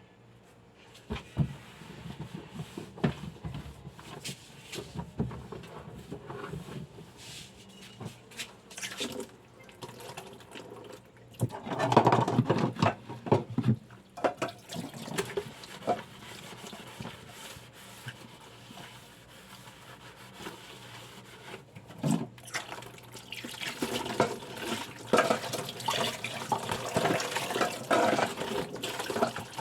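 Water running from a kitchen tap into the sink, in spells, with scattered knocks of dishes and pans being handled.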